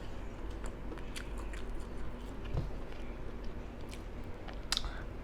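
Close-miked chewing and mouth sounds of someone eating gumbo: scattered small wet clicks and smacks, with a sharper click near the end.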